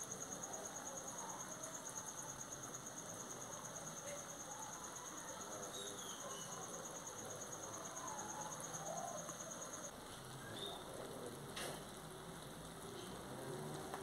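Shrimp, vegetables and cheese frying faintly in a metal pan over charcoal embers, a soft steady sizzle. Over it an insect keeps up a high, pulsing trill that stops about two-thirds of the way through.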